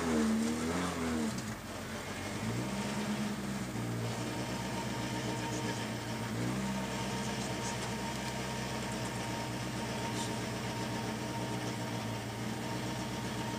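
Rally car's engine heard from inside the cabin, its revs falling away and then settling to a steady idle, with two brief rises in revs about two and a half and six and a half seconds in.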